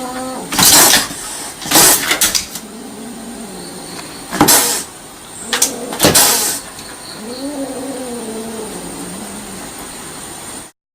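A cat gives one long, drawn-out meow that rises and falls, about seven and a half seconds in. Before it come four loud, brief scuffing noises.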